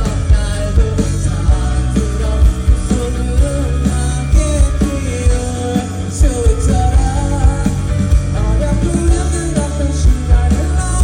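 Live pop-rock band music with a steady drum beat, guitar and a melody line over it, recorded from the festival audience.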